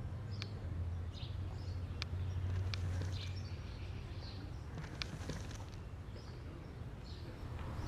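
Scattered short chirps from a flock of starlings over a steady low rumble, with a few sharp clicks.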